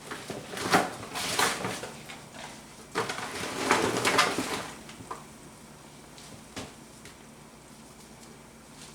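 Kitchen clean-up noises: two short spells of handling and clatter, then a couple of single clicks.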